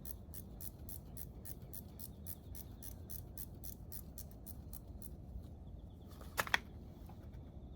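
Ratchet wrench clicking in a quick even run, about six or seven clicks a second, while a fastener is worked on engine teardown; the clicking stops about five seconds in, and two sharper metal knocks follow near the end.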